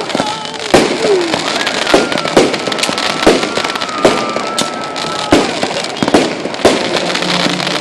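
Aerial fireworks bursting in quick succession, a sharp bang every half second to a second over constant crackling.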